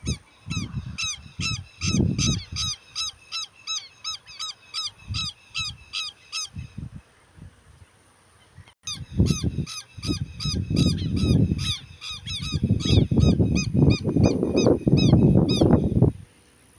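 A bird giving a rapid series of short, high calls, about three a second, in two runs with a pause in the middle. Low, irregular rumbles sit under the calls, heavier in the second run.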